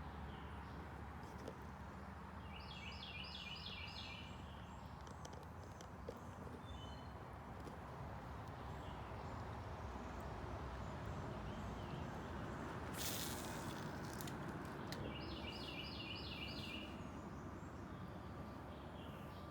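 Steady outdoor background noise, with a bird singing a quick run of five or six high notes twice, about three seconds in and again about fifteen seconds in. A brief hiss comes a little after the middle.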